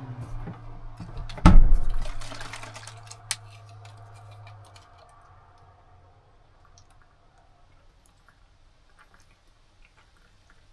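A vehicle engine idling with a steady low hum that shuts off about five seconds in. A loud knock comes about one and a half seconds in, and faint small clicks and taps follow once the engine is off.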